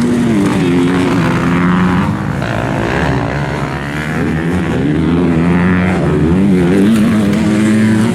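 Motocross dirt bike engine revving hard, its pitch climbing and falling several times as the throttle opens and closes through the turns and jumps.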